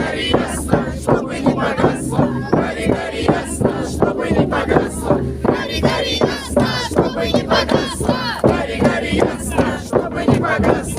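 A crowd chanting and shouting together in a steady rhythm, with a beat about twice a second.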